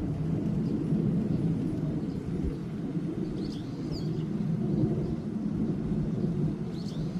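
A few faint, short high bird chirps, one cluster about three and a half seconds in and another near the end, over a louder low rumble that runs throughout.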